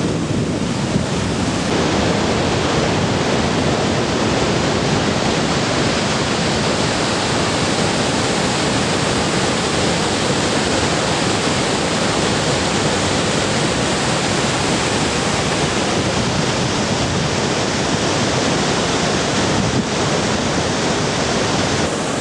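Loud, steady roar of the Iguazu Falls: a huge volume of water crashing down, heard up close as an even, unbroken rush.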